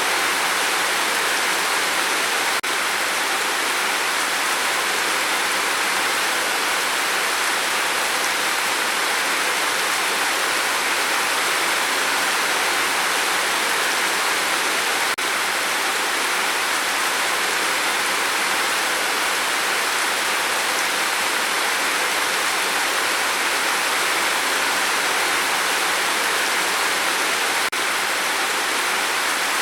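Steady rain falling: a dense, even hiss of drops that holds constant throughout.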